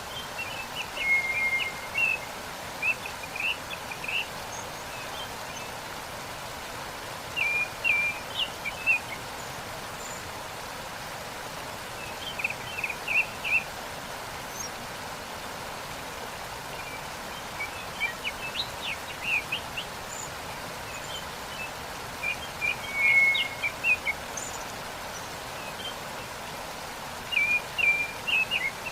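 Steady rush of a waterfall, with a small songbird singing short chirping phrases that come back in bouts about every five seconds.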